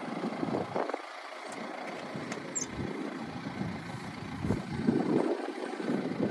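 Gusting wind buffeting the microphone, rumbling in uneven surges.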